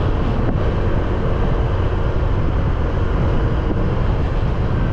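A small motorbike being ridden, with steady wind rush on the microphone over the engine and road noise.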